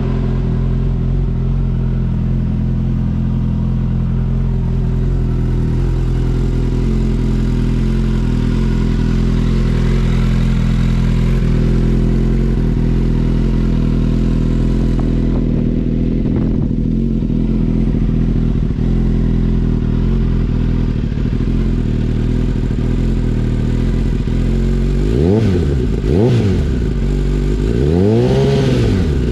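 2020 Suzuki Katana's inline-four engine idling steadily through a MIVV aftermarket exhaust with the catalytic converter removed, then revved three times near the end, the last rev longer than the first two.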